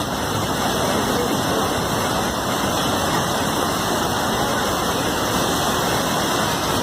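Floodwater rushing in a steady, unbroken roar of water.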